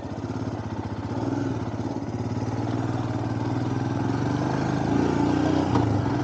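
Motorcycle engine running steadily on the road, growing slightly louder, with wind hiss on a helmet-mounted wireless microphone worn with the chin bar up.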